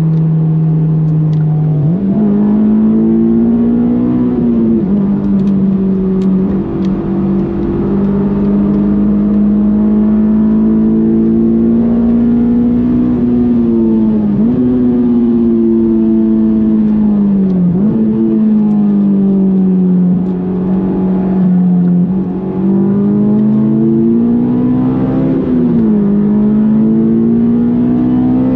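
Honda S2000's 2.2-litre F22 four-cylinder engine run hard under load, held high in the revs. Its pitch climbs slowly and drops sharply about four times at gear changes or lifts. It starts lower and jumps up about two seconds in.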